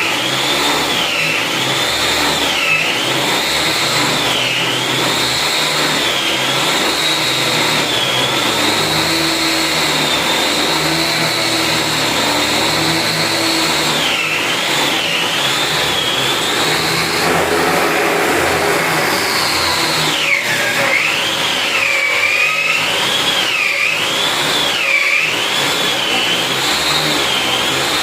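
Handmade lathe's small electric motor running with a high whine whose pitch keeps wavering down and back up. The whine drops out for about two seconds past the middle, then returns with a sharp dip in pitch.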